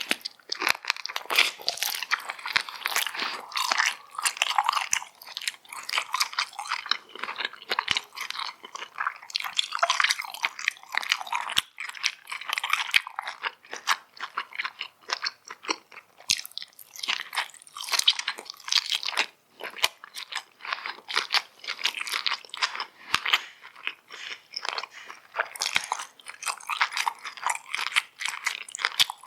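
Close-miked eating sounds: continuous chewing with dense, crisp crunching and crackling.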